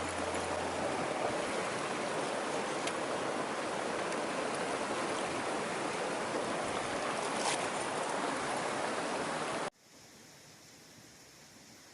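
Mountain stream water rushing steadily. Near the end it cuts off abruptly to a faint hiss.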